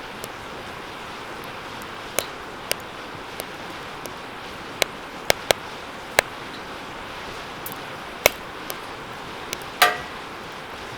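Wood fire burning in a steel fire pit: a steady rush of flame with scattered sharp crackles and pops, and near the end a brief ringing metallic ping from the fire pit's metal.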